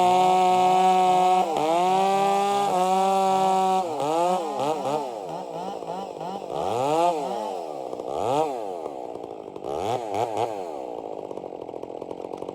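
Chainsaw running at a high, steady throttle with two brief dips in pitch. About four seconds in, the throttle is released and blipped, so the engine revs up and down repeatedly before settling toward idle near the end.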